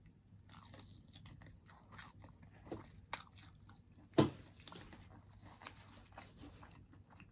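Close-miked chewing and crunching of food in the mouth, a run of small crackly bites with a sharper, louder crunch about four seconds in.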